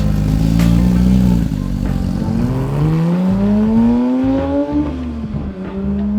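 Car engine under acceleration: the pitch climbs steadily for about two seconds, drops suddenly about five seconds in as at a gear change, then holds and begins climbing again.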